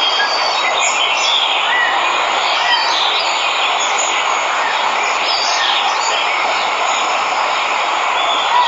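Waterfall: a steady rush of falling water, with birds chirping over it.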